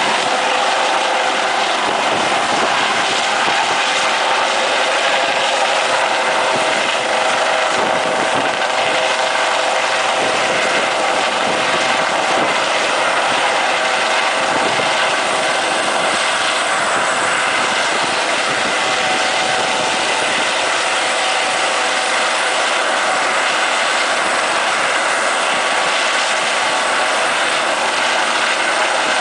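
Helicopter's turbine engine and rotor running steadily, a constant whine over dense rushing noise.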